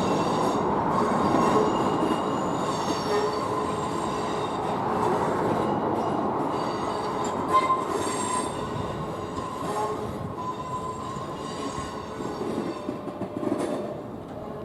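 A Class 465 electric multiple unit rolling past, with high-pitched wheel squeal that comes and goes over the rumble of the train, slowly fading toward the end.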